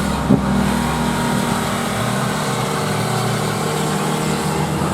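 Car engines running steadily, with a short loud blip about a third of a second in.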